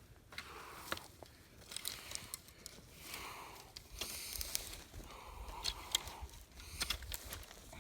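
Dry leaves, twigs and dirt rustling and scraping in a series of swishes as debris is raked around a cut stump, with sharp snaps and clicks of sticks between the strokes.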